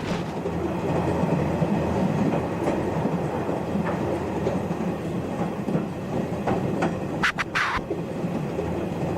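Train running with a steady rumble of wheels on the rails. A few short hissing sounds come about seven seconds in.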